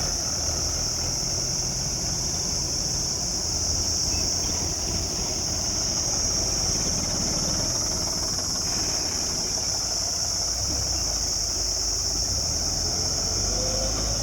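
Heavy vehicle engine, a tractor or loader, running steadily at low revs, with a steady high-pitched hiss above it.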